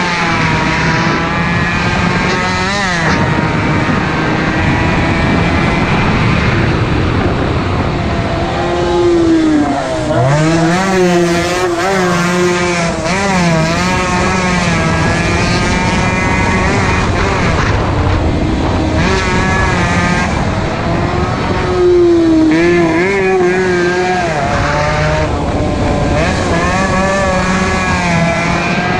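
Several two-stroke motorcycle engines racing, their pitch repeatedly climbing and dropping with throttle and gear changes. A louder bike comes close about ten seconds in, and again a little past twenty seconds.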